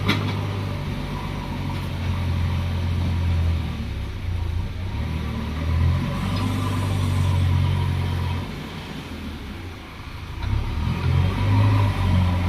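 Diesel engine of a backhoe loader running under load, its low note swelling and easing, dropping off about ten seconds in before picking up again. A few short sharp knocks are heard along the way.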